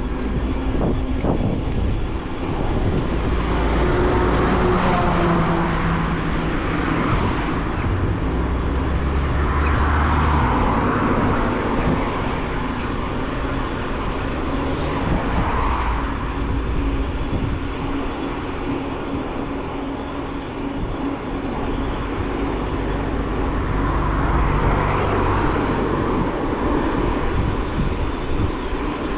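Riding noise picked up by a camera mounted on a moving bicycle: wind rumbling on the microphone and tyres rolling, with a steady low hum. A rushing noise swells and fades about four times.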